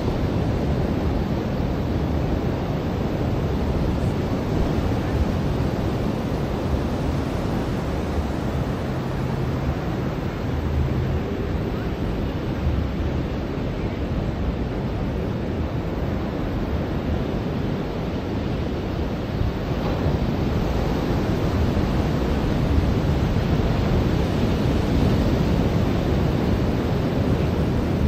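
Ocean surf washing onto a beach, a steady rushing noise that swells a little in the last third, with wind on the microphone.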